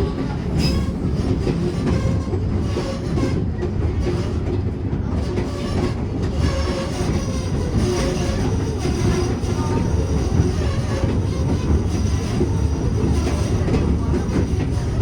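A White Pass & Yukon Route narrow-gauge train running along the rails with a steady low rumble, and faint squeals coming and going over it.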